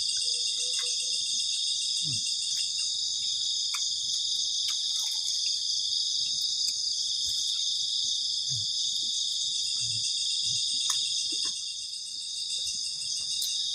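A loud night chorus of crickets trilling steadily in a high, dense shimmer, easing a little near the end, with a few faint scattered clicks.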